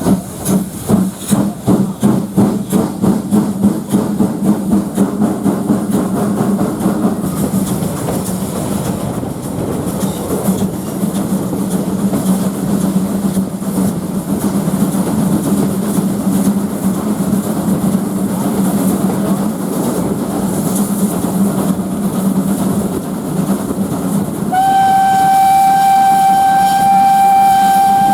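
Ty42 steam locomotive working hard, its exhaust beats quickening until they blend into a steady rush as the train picks up speed. About 24 seconds in, its steam whistle sounds one long, steady note.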